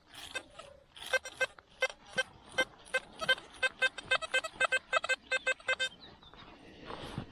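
Metal detector giving a quick run of short, pitched beeps, about four a second, that stop near the end; the repeated tone signals a buried metal target under the coil.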